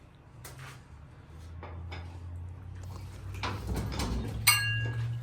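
Shop work noises: a low steady hum that builds up, scattered knocks, and near the end a sharp metallic clang that rings on with clear tones.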